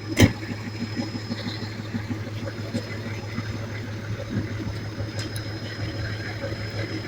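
Vehicle engine idling steadily with a constant high whine, and one sharp knock shortly after the start.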